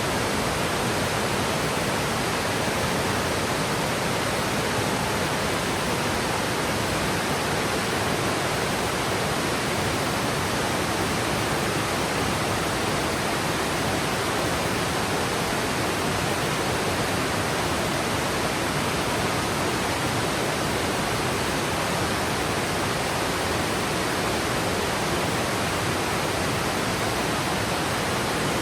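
Yudaki waterfall, water cascading down a steep rock slope, making a steady, unbroken rush.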